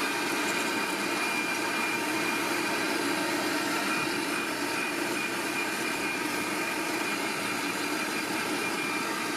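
Vacmaster VQ607SFD stainless steel wet/dry shop vacuum running steadily: a constant motor whine over a steady rush of air.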